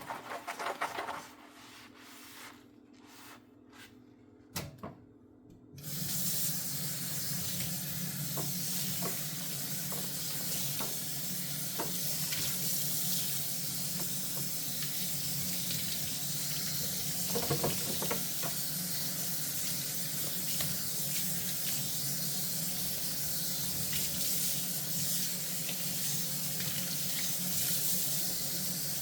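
A few knocks and clinks of dishes, then about six seconds in a kitchen tap is turned on and water runs steadily into the sink. A short cluster of clinks sounds under the running water about two-thirds of the way through.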